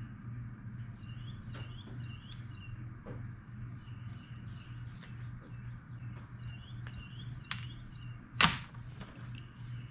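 Small birds chirping over and over over a steady low hum, with light clicks as wire is handled and one sharp knock near the end.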